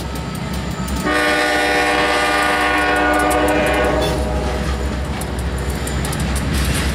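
Freight train locomotive air horn sounding one blast of about three seconds, starting about a second in, over the steady low rumble of the passing diesel locomotives. After the horn stops, the wheels click over the rail joints.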